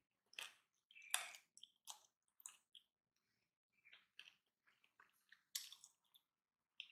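Close-miked chewing of a hand-fed mouthful of rice: quiet wet smacks and clicks of the mouth in irregular clusters, a few a second, with short pauses between them.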